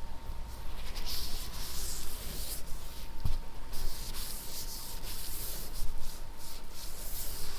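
Repeated soft rubbing strokes, in uneven pulses about one or two a second, with a hissy, scratchy texture.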